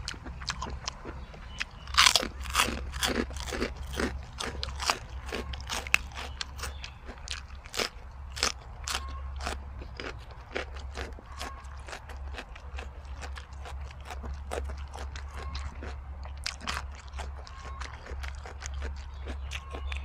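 Close-up chewing of crisp jellyfish salad: rapid wet crunches in runs, heaviest about two to five seconds in and again around eight to ten seconds.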